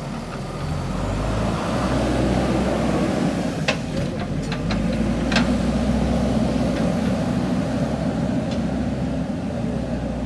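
Diesel engine of a JCB 3DX backhoe loader running steadily under load, growing louder about a second in. There are a few sharp knocks around the middle.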